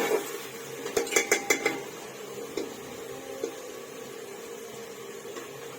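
Metal spoon clinking and scraping against a cooking pot: a quick run of about five or six strikes about a second in, then a steady low hum.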